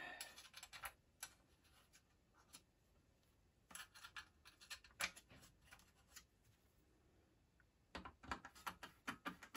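Faint scattered clicks and short scrapes of small T15 Torx screws being set by hand and driven with a screwdriver into the Macintosh 512Ke's metal chassis frame. The sounds come in a few spaced ticks in the middle and a quicker run near the end.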